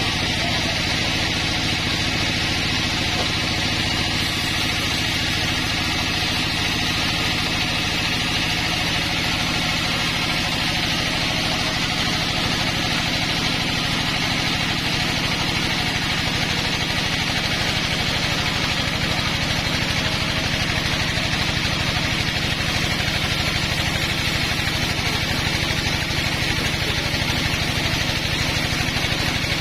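Homemade sawmill running steadily as it saws a pine log: an even engine drone with a constant hiss of the cut above it.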